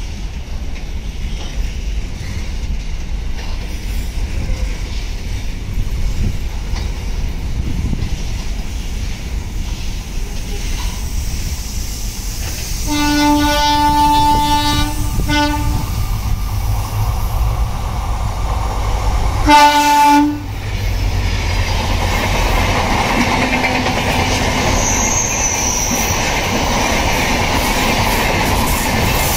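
A container freight train rolling past with a steady rumble of wagons on the rails. A train horn sounds twice: a long blast of about two and a half seconds partway through, then a short blast some five seconds later. Near the end, the red coaches of a passenger express run past with wheel clatter.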